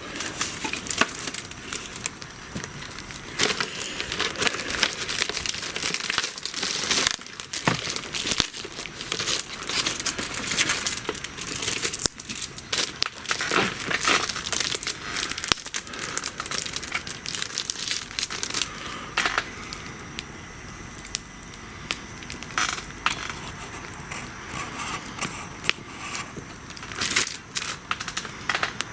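Wood bonfire crackling steadily, with louder sharp pops every few seconds.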